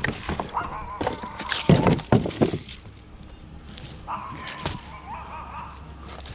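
Scrap being handled: wood and junk knocking and clattering as it is moved, in several bursts with a sharp crack about two-thirds through. Two drawn-out squeaky tones sound alongside, one early and a longer one just after the middle.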